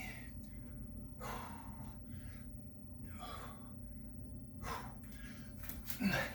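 A person breathing hard from exertion during a set of six-count exercise reps: four heavy, airy breaths a second or two apart.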